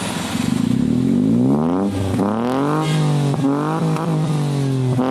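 Toyota Agya engine revved through an aftermarket Remus branched exhaust. The revs climb for about a second and a half, drop back about two seconds in, then are blipped up and down several more times.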